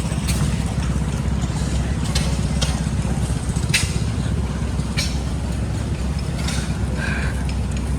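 Old stationary gas engines running: a steady low rumble, with a few sharp clicks through it.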